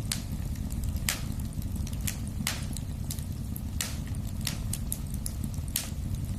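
Wood fire burning in a fireplace: a steady low rumble of flames with irregular sharp crackles and pops from the burning logs, several a second at times.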